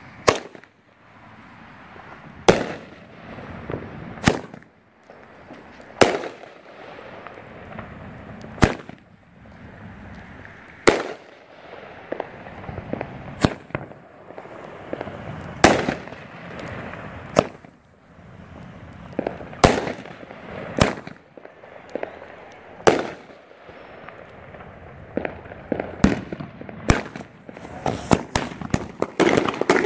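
Red Apple Fireworks "Red" consumer fireworks cake firing: a sharp bang about every two to three seconds, with hissing and crackling between shots. Near the end the shots come faster, with dense crackling.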